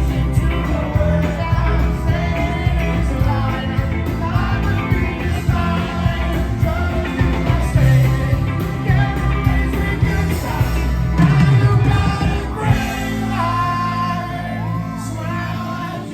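Live rock band playing with a singing voice over guitar and a heavy beat; about thirteen seconds in, the beat stops and the music settles into sustained held notes.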